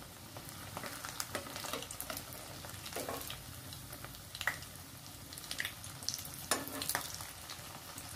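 Potato and sabudana tikkis shallow-frying in oil in a non-stick kadhai, sizzling and crackling steadily over medium heat. A few louder scrapes come from a metal slotted spoon as a tikki is turned over.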